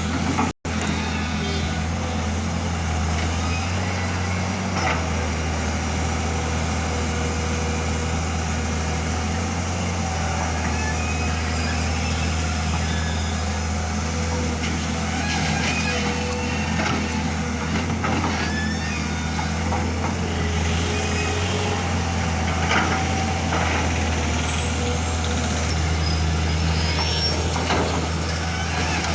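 Heavy diesel engines of a JCB loader and a lorry running steadily with a deep drone, with a few scattered knocks or clanks in the second half. The sound cuts out for a split second about half a second in.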